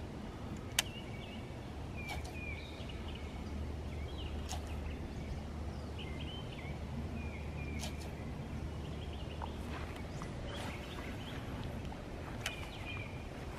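Small birds singing short chirping phrases that recur every second or two, over a steady low hum, with a few sharp ticks, the loudest about a second in.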